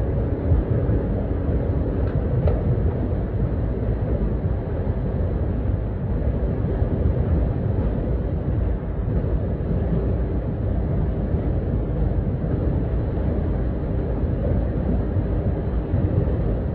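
2.0 TDI diesel sedan under way: a steady low rumble of engine, road and wind noise with a faint even engine hum. The sound cuts off suddenly at the end.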